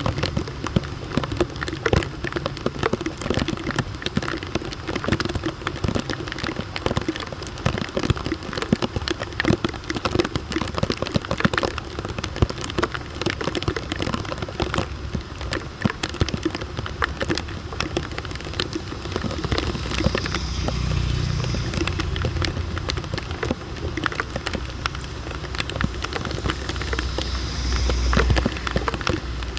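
Heavy rain falling on a hard surface: a dense, irregular patter of drops. A low rumble swells about two-thirds of the way through and fades near the end.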